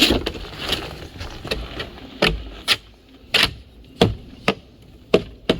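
A series of sharp knocks, about ten, at uneven intervals.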